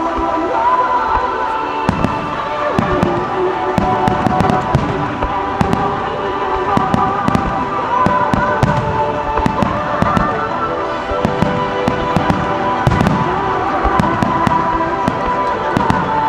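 Fireworks going off in quick succession, many sharp bangs and crackles, over music playing along with the display.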